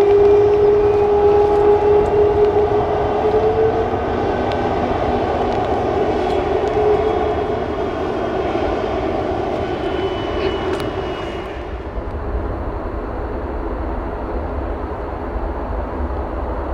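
Jet airliner's engines running loud and steady with a held whining tone. The sound thins and fades after about twelve seconds, leaving a low rumble.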